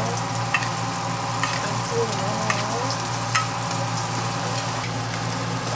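Hotteok (Korean sweet pancakes) frying in a shallow layer of oil on a flat griddle, sizzling steadily, with scattered sharp clicks.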